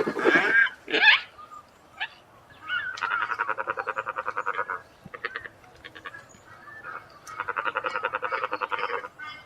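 Marabou stork sounds: a loud gliding call at the start, then two bursts of rapid, croaking rattle, each about two seconds long.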